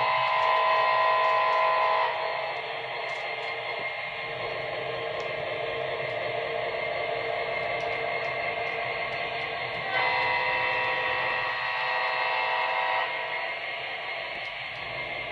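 Train horn sounding: a held chord that stops about two seconds in, then a second long blast of about three seconds starting about ten seconds in, over a steady running noise.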